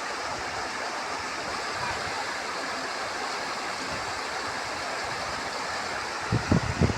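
Steady rush of running water, an even noise without pitch. Near the end a few low rumbling bumps break in over it.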